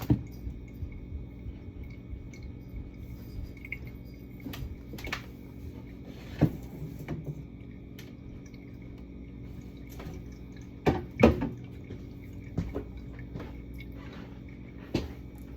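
Scattered knocks and clinks of jars, bottles and food containers being lifted out of a fridge and set down, about eight in all and loudest about eleven seconds in, over a steady hum.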